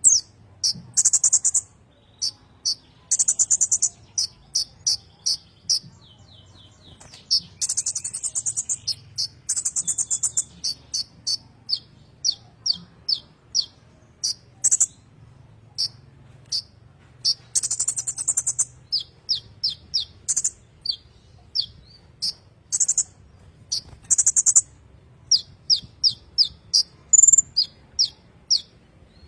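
A kolibri ninja sunbird singing in long continuous phrases: high, rapid buzzy trills alternating with quick runs of short descending chips, repeated over and over.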